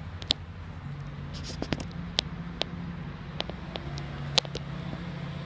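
BMW R 1200 RT's boxer twin engine idling steadily, with scattered sharp clicks over it.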